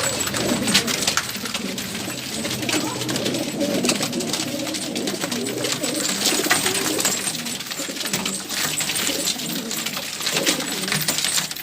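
Many domestic pigeons cooing over one another, with frequent sharp clicks and taps throughout.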